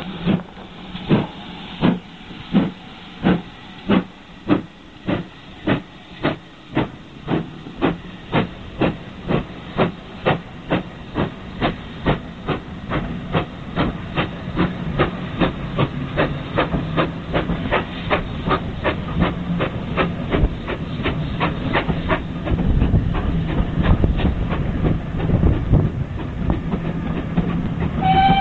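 Steam locomotive pulling away, its exhaust beats starting slow and quickening steadily as it gathers speed, until they run together into a continuous sound. A short whistle note sounds at the very end.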